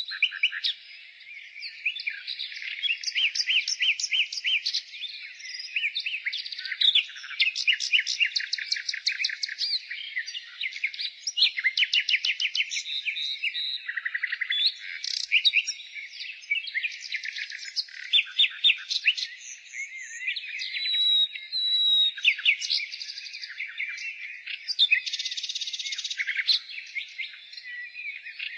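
Nightingale singing in a continuous run of varied phrases: fast strings of repeated notes and trills, with a few clear held whistles.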